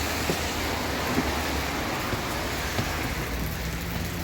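Heavy rain falling steadily, with scattered sharp drop taps over an even hiss.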